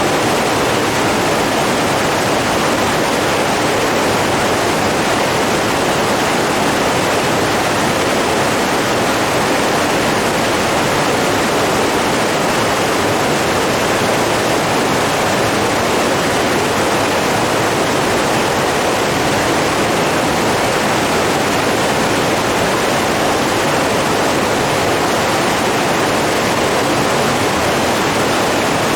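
Flowing water rushing steadily, an even hiss with no change in level or character.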